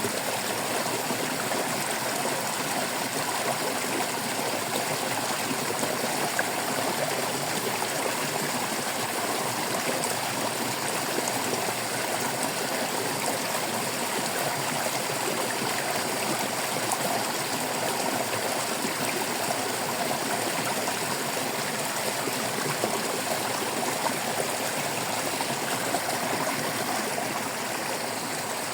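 Shallow stream babbling and trickling steadily over stones.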